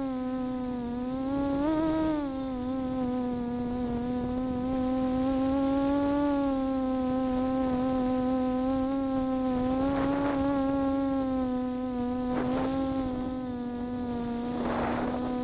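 FPV drone's electric motors and propellers buzzing steadily in flight, the pitch rising and falling a little with the throttle, with a few brief rushes of noise later on.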